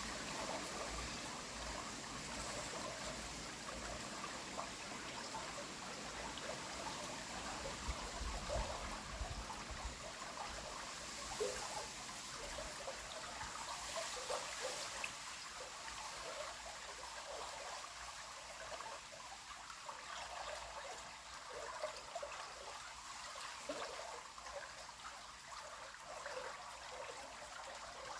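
River water flowing steadily, with small trickles and gurgles over it.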